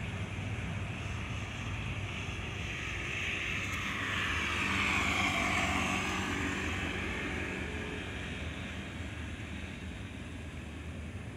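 Jet engines of a Boeing 737-300 passing by. The sound swells to its loudest about five seconds in and then fades.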